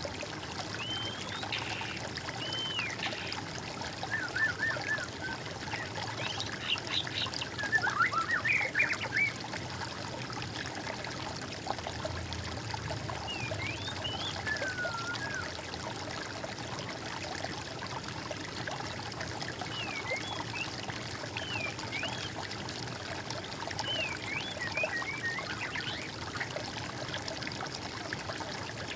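Birds calling and singing now and then in short rising and falling notes, busiest in the first ten seconds, over the steady trickle of running water.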